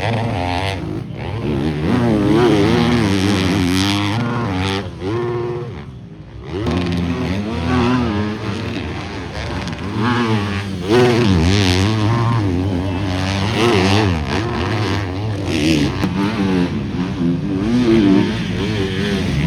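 250cc four-stroke motocross bikes racing on a dirt track, engines revving up and down repeatedly through jumps and corners, with a brief lull about six seconds in.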